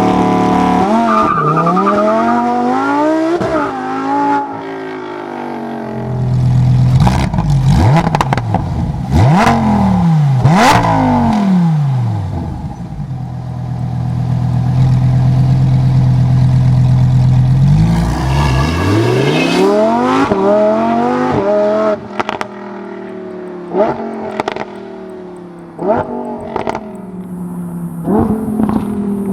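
Lamborghini Huracan Tecnica's naturally aspirated V10 revving hard, its pitch rising and falling several times, with a long steady high-rev stretch in the middle and sharp pops and crackles on the overrun in the second half.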